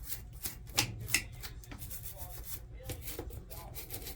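Wire brush scrubbing old oil and gunk, loosened by degreaser, off the metal gears of a Singer 111W sewing machine: a run of quick scraping strokes, with two louder ones about a second in.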